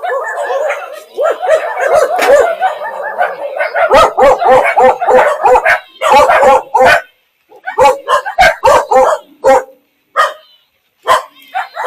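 Quick runs of short, pitched animal calls, dense at first and then coming in separate bursts with brief silent gaps in the second half.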